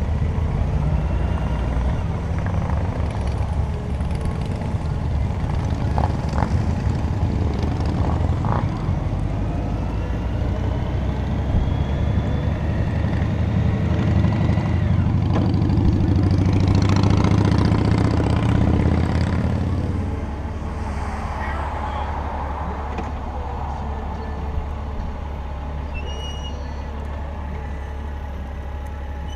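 Motorcycle riding noise: engine rumble mixed with wind. It swells to its loudest past the middle, then drops off about two-thirds of the way through and carries on steadier and quieter.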